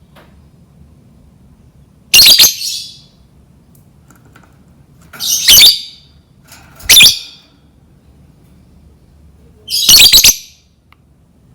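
Lovebird giving four loud, harsh, high-pitched squawking calls a few seconds apart, each lasting under a second.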